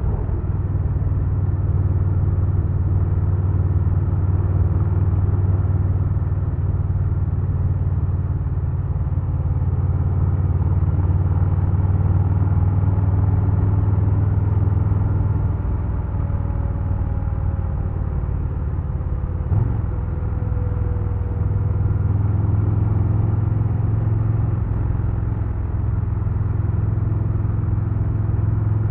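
2022 Harley-Davidson Low Rider S's Milwaukee-Eight 117 V-twin running at a fairly steady speed while riding, with a short knock about twenty seconds in.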